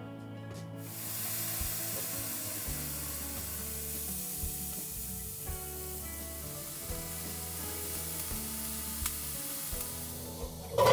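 Food sizzling in a hot pan: a steady hiss that starts about a second in, with a short louder knock at the very end.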